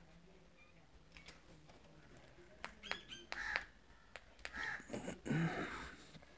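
A bird calls in three short harsh bursts in the second half, the last the loudest, with light clicks and taps in between.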